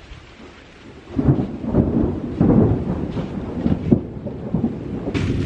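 Thunder rumbling over rain, rolling in about a second in and going on irregularly.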